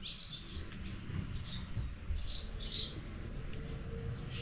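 Small birds chirping in short bursts of quick high notes, several times, over a steady low rumble.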